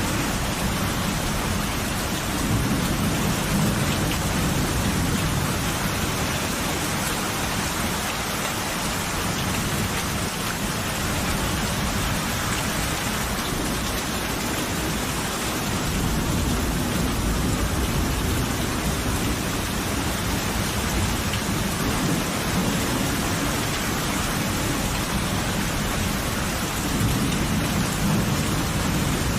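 Steady rain with low rolling thunder that swells and fades three times.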